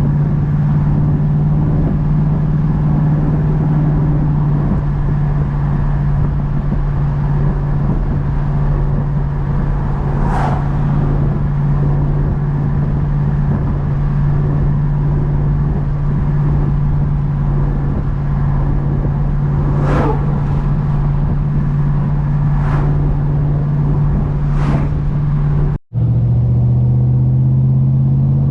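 A Chevrolet Chevelle's engine running through a 2.5-inch true dual exhaust with single-chamber mufflers, held at an even speed. A few brief sharp sounds ride over it, and the sound cuts out for an instant near the end.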